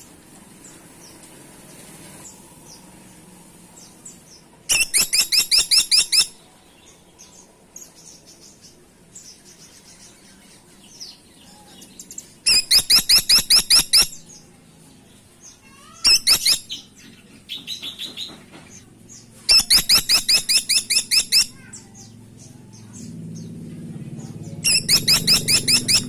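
Grey-and-buff woodpecker (caladi tikotok) calling: five loud rattling runs of rapid, evenly spaced high notes, about seven a second, each run lasting one to two seconds.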